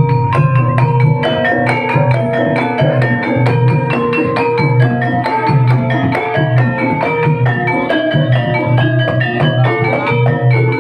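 Banyumasan gamelan music for an ebeg dance: mallet-struck keyed instruments play fast running melodies over a steady low sustained tone.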